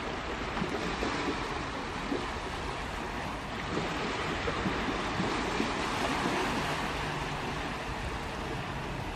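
Sea waves washing onto a beach: a steady rushing surf.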